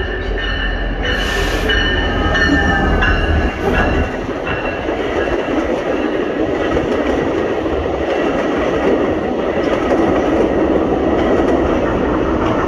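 A CN diesel locomotive passes close by with a deep engine rumble that drops away about four seconds in. The steady rush and clatter of VIA Rail passenger cars rolling past on the rails follows, with faint high wheel squeal in the first few seconds.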